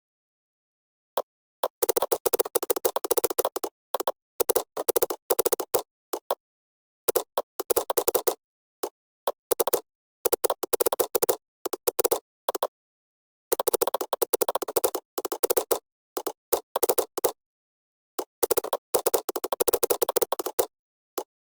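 Keyboard typing in irregular bursts of rapid key clicks, with short pauses between bursts that cut to complete silence.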